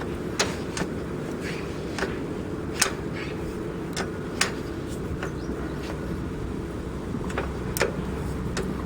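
Homemade tractor's engine running steadily, with a dozen or so sharp, irregular clicks and knocks over it.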